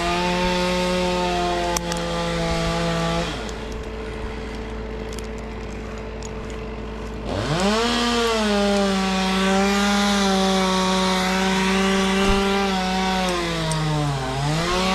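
Two-stroke chainsaw running at high revs, dropping to a lower idle for a few seconds, then revved sharply back up and cutting wood. Its engine pitch sags under load and recovers near the end.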